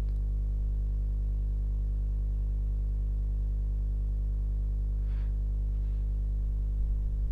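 Steady low electrical hum: a deep mains buzz with a ladder of overtones, unchanging throughout, with a faint brief rustle about five seconds in.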